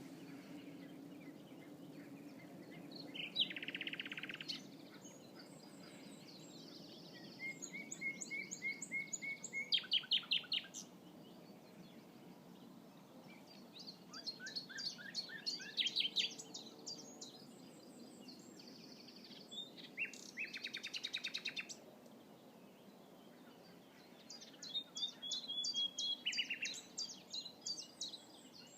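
Common nightingale singing in separate phrases of repeated notes and fast rattling trills, with pauses of a few seconds between them, over a steady low rumble.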